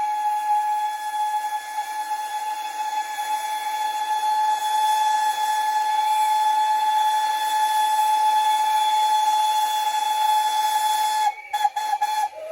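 Steam locomotive whistle held in one long, steady blast over a hiss of steam. The blast breaks off about eleven seconds in, stuttering in a few short gaps near the end.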